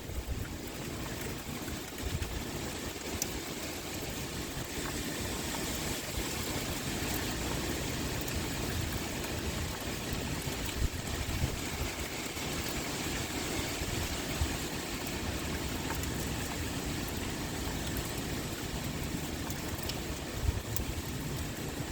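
Steady pouring rain with wind, under a low rumble that swells now and then.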